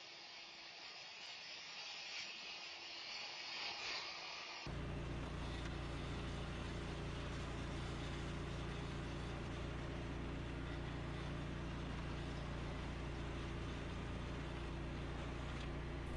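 A steady hiss for about the first four and a half seconds, then a sudden cut to a John Deere X739 garden tractor's engine running at a steady speed.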